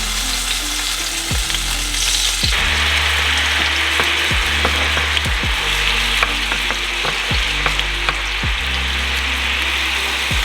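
Salmon frying with a steady sizzle that gets louder about two and a half seconds in. Under it runs background music with deep bass notes and a regular drum beat.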